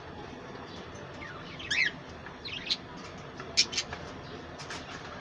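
Budgerigars chirping in short, scattered calls, a few sharp ticks among them, over a steady low background.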